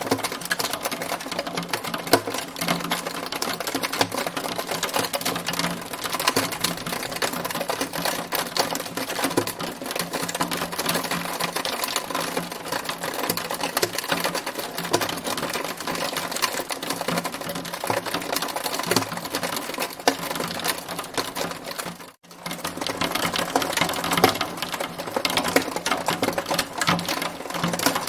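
Hail falling in a dense, rapid clatter of ticks, which cuts out for a moment about 22 seconds in.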